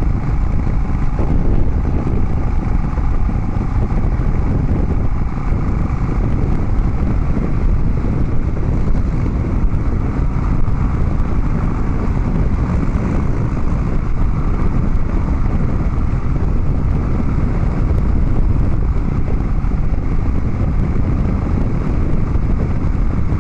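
Harley-Davidson Dyna Street Bob's V-twin running through Vance & Hines Big Radius 2-into-2 exhaust pipes while riding, at a steady, unchanging level.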